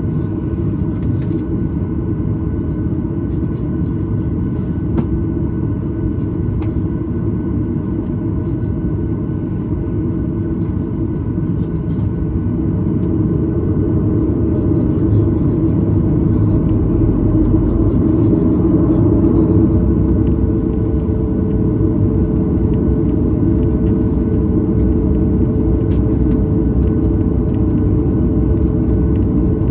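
Cabin noise of a Boeing 737-900ER on the ground, heard from a rear window seat: a steady low rumble of the CFM56 engines and the rolling airframe. It swells about halfway through, and a steady hum joins soon after.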